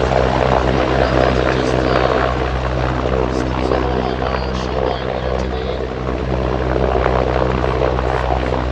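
Helicopter rotors and engines running steadily overhead, a continuous low throbbing drone.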